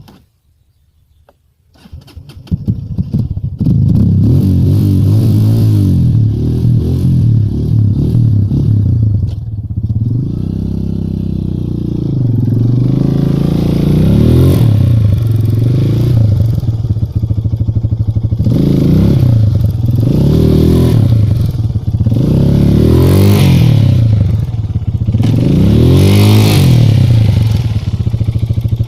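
Minsk X200 motorcycle engine starting about two seconds in, then running loudly and being revved up and down over and over, each rev lasting a second or two.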